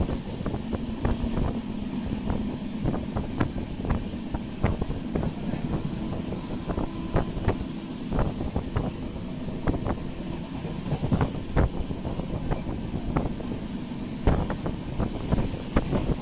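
Moving express train heard from an open coach doorway: a steady low rumble of wheels on the rails, with many irregular clacks and rattles and some wind rushing past.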